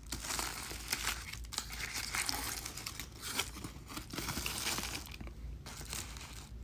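Fast-food sandwich wrapper crinkling and tearing as it is unwrapped: a dense run of crackly rustles with a short pause about five seconds in.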